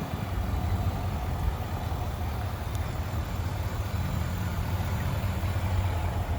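Chevrolet Silverado 3500 HD's 6.6-litre Duramax V8 turbo-diesel running with a steady low rumble.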